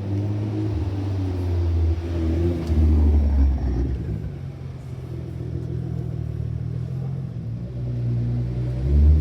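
Nissan GT-R R35's twin-turbo V6 exhaust at low revs, a deep steady note that swells briefly about three seconds in. Near the end the engine begins to rev up.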